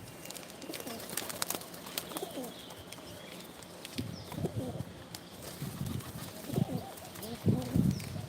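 Pigeon cooing: a series of low, throaty coos building through the second half, loudest near the end, after a few light taps or clicks early on.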